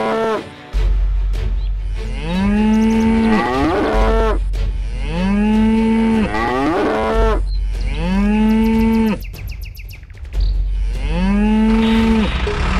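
Recorded cow moos: a series of long calls, each sliding up and then holding, roughly one every two to three seconds, over a steady low hum.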